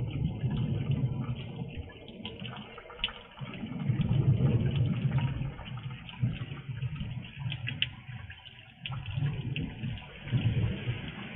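Heavy rain and water runoff heard through a porch security camera's microphone, with drops ticking sharply near the microphone. A low rumble swells and fades several times underneath.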